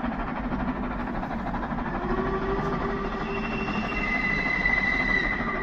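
A train running on the track through the station, a steady rumble growing slowly louder, with high steady ringing tones from about two seconds in.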